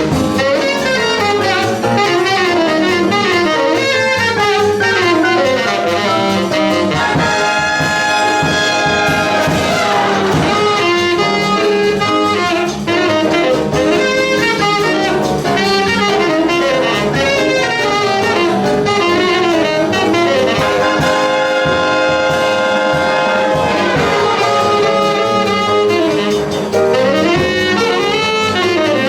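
Jazz big band playing up-tempo swing: saxophones, trumpets and trombones over a rhythm section, with the full ensemble holding long chords twice.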